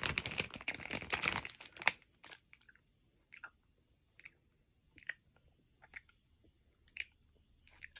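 Chewing candy close to the microphone: a dense run of wet, crackly mouth sounds over the first two seconds, then single chews about every three quarters of a second.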